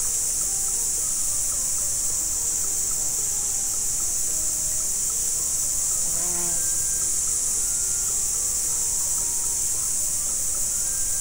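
Steady, dense, high-pitched chorus of insects such as crickets and cicadas in swamp forest, with scattered short soft tones over it and one brief pitched call about six seconds in.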